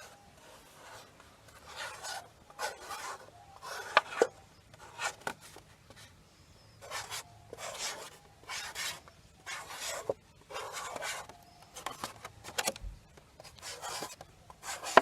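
A pen drawing on a plastic milk bottle: short, irregular scratchy strokes with the odd click as the pen lifts and taps down.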